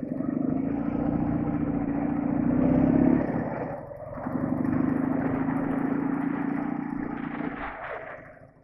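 Soviet flat-twin motorcycle engine under way: it builds up from quiet, drops briefly about four seconds in, runs steady again, then fades away near the end.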